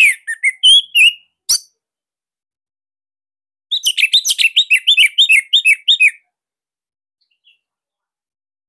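Orange-headed thrush (anis merah) singing: a short burst of sharp, sliding notes, a pause of about two seconds, then a fast, loud run of about a dozen clipped whistled notes.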